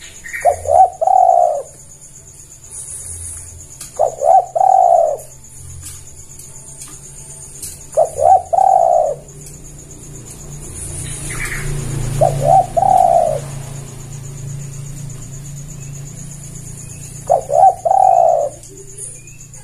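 Spotted dove (tekukur) cooing: five calls spaced about four seconds apart, each a couple of quick short notes followed by a longer rolling coo. A steady faint high-pitched whine runs underneath, with a few brief chirps from another bird.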